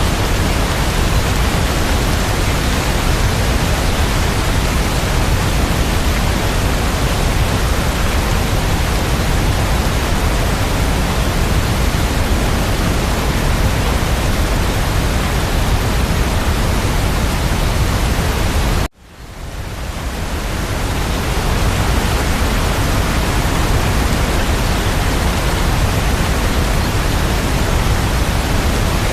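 Steady, even rain hiss with no distinct drops standing out. About nineteen seconds in it cuts out abruptly, then fades back up over a second or two.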